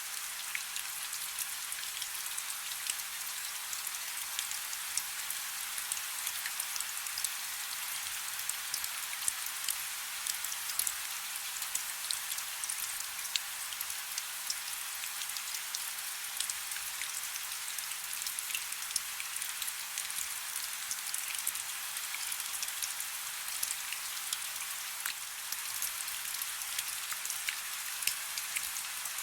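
Soft rain falling steadily: an even hiss of rainfall with many small drops ticking irregularly throughout.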